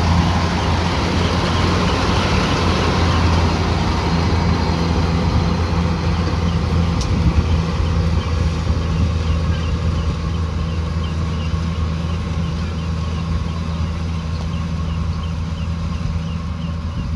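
Kubota combine harvester's diesel engine running steadily, a low drone with machinery noise over it, growing a little fainter over the second half.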